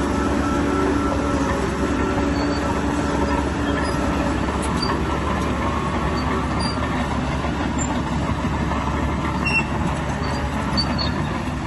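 Heavy diesel earthmoving machinery running steadily, with a constant low engine rumble and mechanical clatter.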